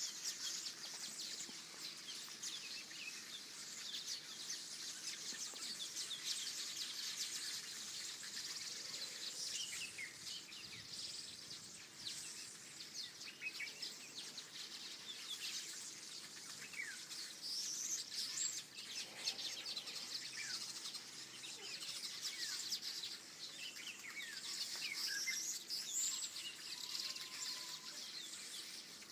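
A chorus of many wild birds singing and chirping together, dense overlapping short chirps and whistles over a steady background hiss.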